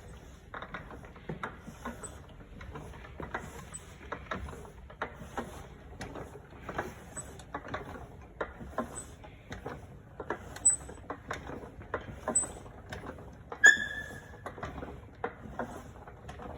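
Ford Model T engine cutaway turning over slowly, its moving parts clicking and clacking one to two times a second, with faint squeaks and one short, louder squeal about 14 seconds in.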